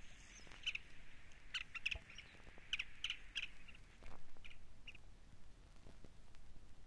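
Black-winged pratincole calling: short, sharp calls given in quick groups of two or three, stopping about five seconds in.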